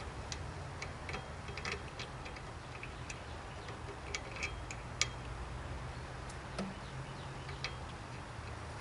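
Scattered light clicks and taps of parts and hand tools being handled during reassembly of a bench grinder, with a sharper click about five seconds in, over a steady low hum.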